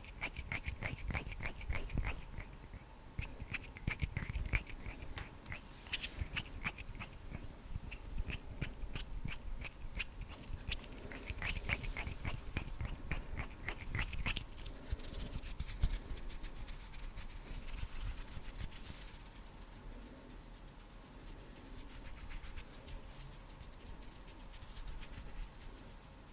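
Close-miked ASMR hand sounds: rapid crackling clicks of fingers and palms, which ease after about fifteen seconds into softer rubbing of skin on skin.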